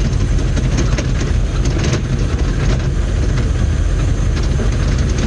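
1990 M998 Humvee's 6.2-litre V8 diesel and drivetrain running steadily at low speed, heard from inside the cab as a loud, even drone.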